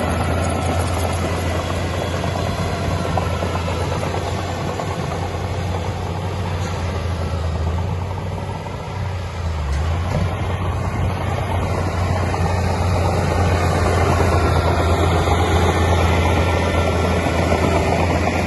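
Heavy diesel engine of earthmoving machinery running steadily with a deep hum, easing off slightly about eight seconds in and picking up again.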